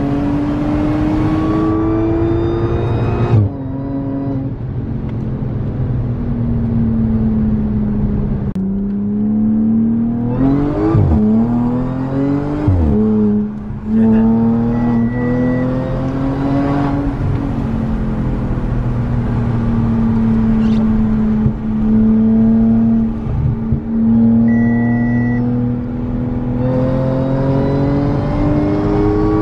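Stage 2 tuned Audi S5's supercharged 3.0 V6 with an X-pipe and muffler delete, accelerating several times. Its pitch climbs steadily and drops sharply at each gear change, with calmer cruising stretches between the pulls.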